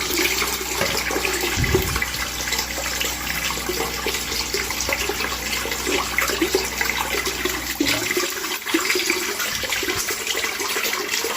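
Water gushing out in a heavy, steady rush. A low hum underneath it stops about eight seconds in.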